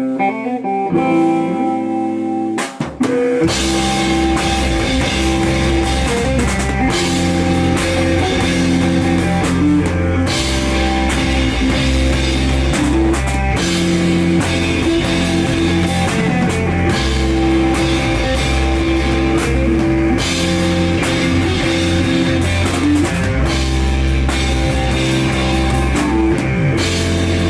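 Live band playing loud rock music. A guitar plays alone for the first few seconds, then drums, bass and guitar come in together about three seconds in and carry on as an instrumental passage.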